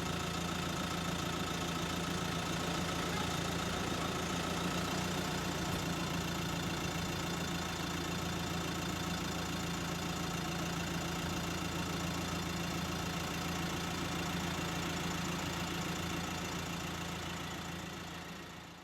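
Jet airliner engines running steadily at idle, a constant low hum with a higher whine over it, fading out near the end.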